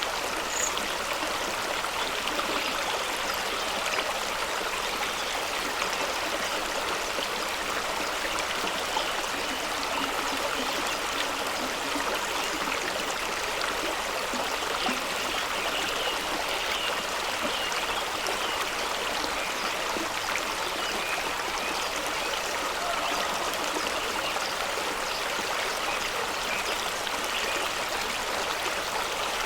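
Fast-running stream rushing and splashing over rocks in a steady, unbroken noise.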